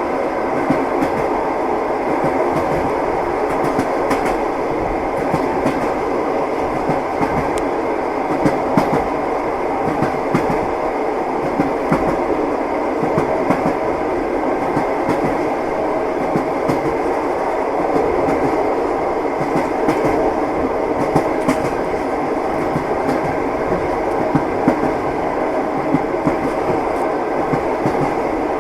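Train running steadily, a continuous rumble with the wheels knocking frequently over the rail joints.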